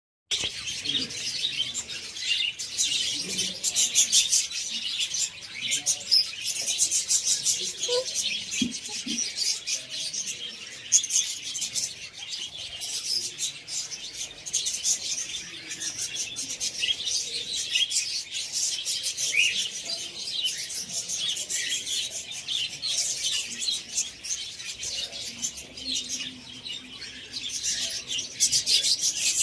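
Many small birds chirping and chattering together, with rapid high chirps overlapping continuously.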